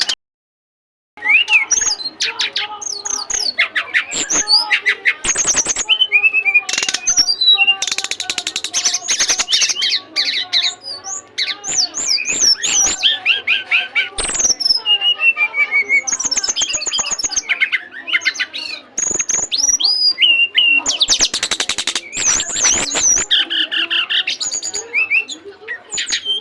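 Lovebird singing a long, unbroken stream of rapid high chirps, sweeps and trills after a second-long break at the start. This is the continuous 'konslet' song prized in Indonesian lovebird contests, sung at full drive.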